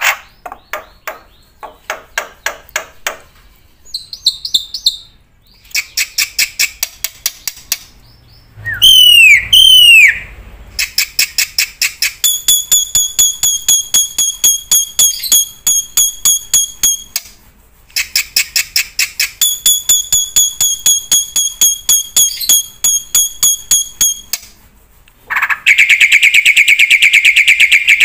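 Bird calls: a run of rapid clicking trills with short gaps, two loud swooping whistles about a third of the way in, and a loud, even buzzing trill near the end.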